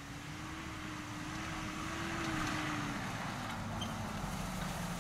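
Mitsubishi Pajero's 2.8-litre turbo diesel engine running. Its note rises slightly, then drops about three seconds in, and it grows louder over the first half.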